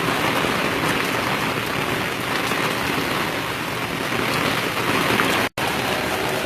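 Heavy rain pouring down in a steady, dense hiss. The sound cuts out for an instant about five and a half seconds in.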